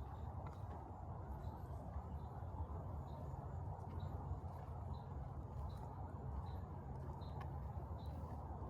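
A small animal's short, high chirp repeating evenly, about every three-quarters of a second, over a steady low rumble.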